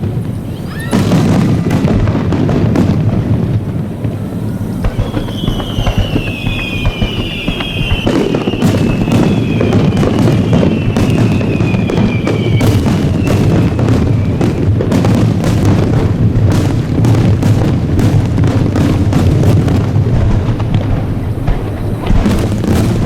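Aerial fireworks bursting: a dense, continuous run of cracks and bangs, with a few long, slowly falling whistles about a quarter of the way in, over music in the background.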